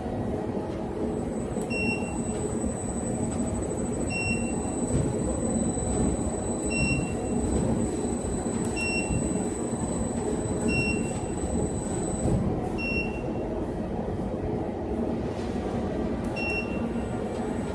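Industrial washing machine running with a steady rumble and hum, a high thin whine over it that stops about two-thirds of the way through. A short electronic beep sounds roughly every two seconds.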